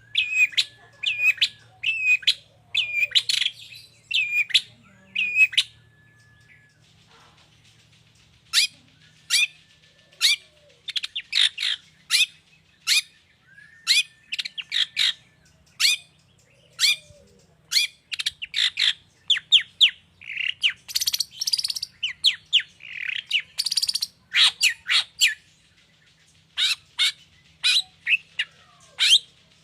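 Long-tailed shrike (pentet) singing a rapid, varied song of short chirps and harsher notes, mimicking other birds' calls. There is a brief lull about seven seconds in.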